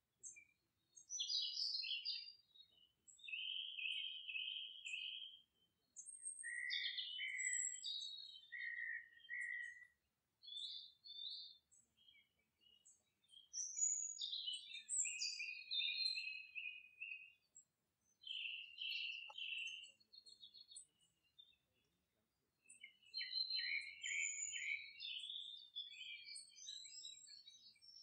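Birds singing: a string of high chirping and trilling phrases, each a second or two long, with short pauses between them.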